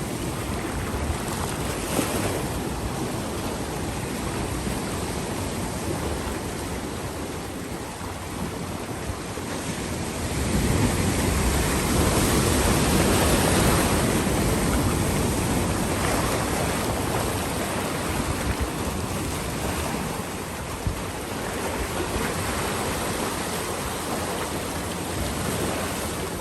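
Ocean surf washing against a rocky shore, with wind on the microphone; the surge grows louder about ten seconds in, then eases back.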